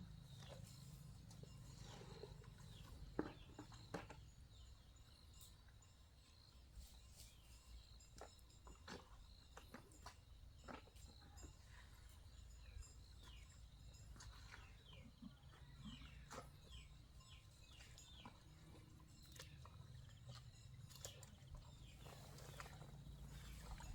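Near silence: faint outdoor ambience with a low rumble and scattered light clicks and taps.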